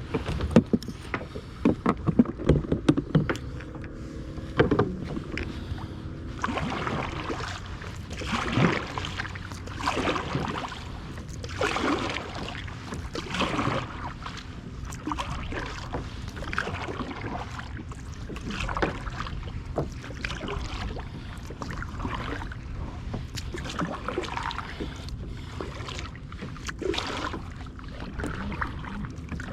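A kayak being paddled: a short splash of water with each paddle stroke, about one every second and a half, after a few sharp knocks against the hull in the first seconds. A low steady rush of wind on the microphone lies underneath.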